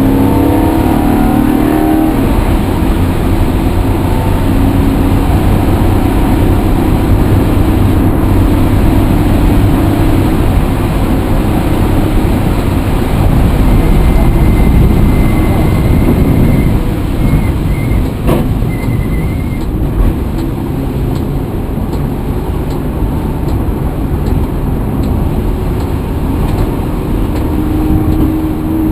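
A motor vehicle's engine running steadily while under way. Its pitch rises over the first couple of seconds as it picks up speed, and there is a single sharp click about two-thirds of the way through.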